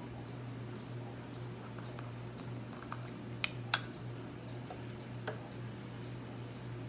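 A few sharp clicks and taps from a tin of beard balm being handled and opened, two close together about halfway through and one more a little later, over a steady low hum.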